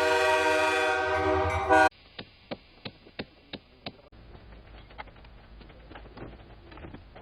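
A locomotive air horn sounding a long held chord, cut off abruptly about two seconds in. After it comes quieter audio with about six sharp knocks, roughly three a second.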